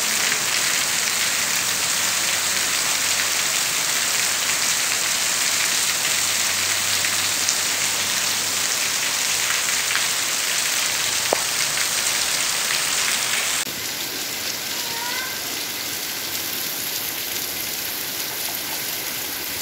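Heavy rain falling steadily on a paved yard, a dense even hiss. About two-thirds of the way through it changes abruptly to a softer, steady rain.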